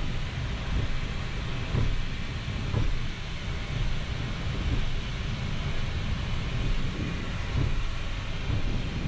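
Flight-deck noise of a Boeing 737 MAX 8 taxiing onto the runway to line up: a steady low rumble from the idling CFM LEAP-1B engines and the rolling gear, with a few soft thumps.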